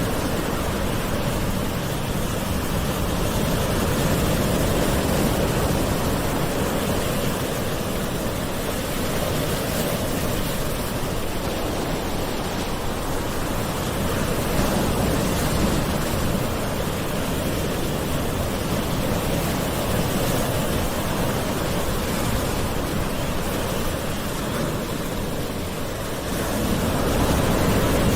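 Ocean waves washing onto a shore in a continuous hiss, swelling and easing gently every several seconds.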